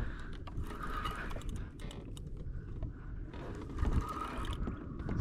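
Quick irregular clicks and knocks of fishing tackle being handled on a kayak while a hooked kawakawa is brought alongside, with a heavier knock about four seconds in.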